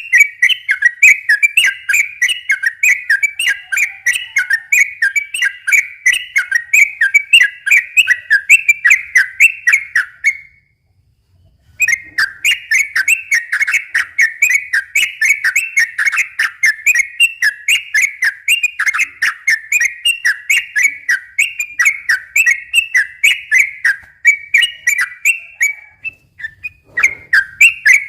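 Sooty-headed bulbul (trucukan) singing a fast, unbroken run of rapid whistled chirps, the 'ropel' song used to provoke other bulbuls into singing. The song breaks off for about a second and a half around the middle, then resumes.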